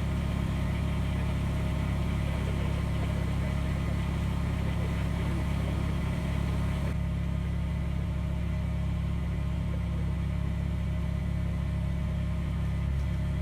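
Kubota BX23s sub-compact tractor's three-cylinder diesel engine running steadily.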